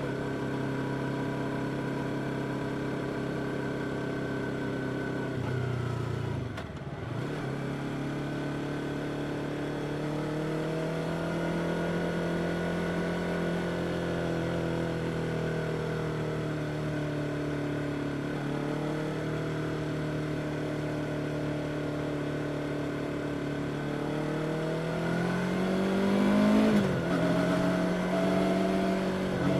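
Yamaha R25 motorcycle's parallel-twin engine running under way: a steady engine note that drops sharply about six seconds in, climbs back and holds, then revs up and falls back again near the end.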